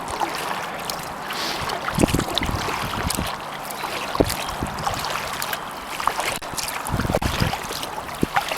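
Kayak paddle strokes dipping and splashing in pond water, with trickling drips and a few low thumps, under light wind noise on the microphone.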